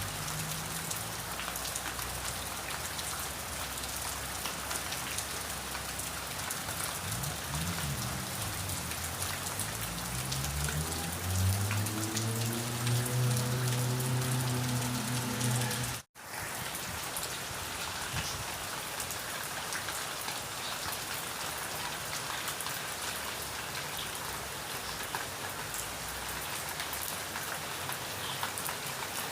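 Steady rain falling on surfaces, an even hiss. Partway through, a low hum rises slowly in pitch for several seconds, and the sound cuts out for an instant before the rain carries on.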